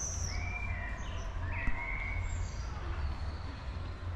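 A few short whistled bird calls, some high and falling and some held lower, over a steady low rumble.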